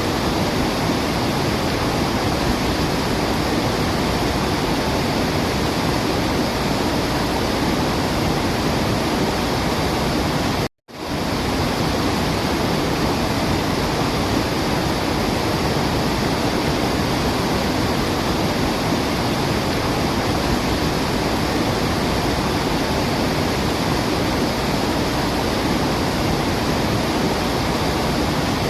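Steady rushing of a waterfall, an even full-range roar of falling water. It cuts out for a split second about eleven seconds in.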